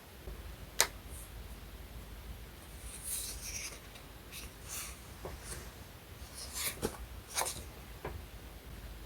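Paper and stickers being handled close up: short, light crinkles and rustles, with a sharp tap about a second in.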